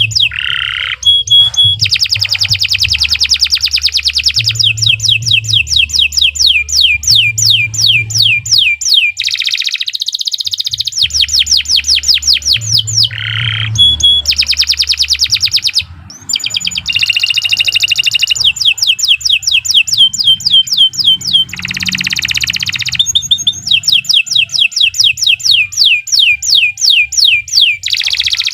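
Domestic canary singing a long song of fast trills and rolls, rapid repeated sweeping chirps, pausing briefly about ten seconds and again about sixteen seconds in.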